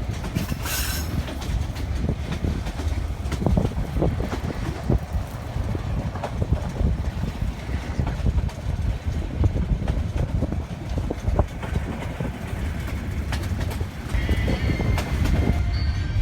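Metre-gauge passenger train running on bumpy track: a steady low rumble with irregular knocks and clatter from the wheels and coach.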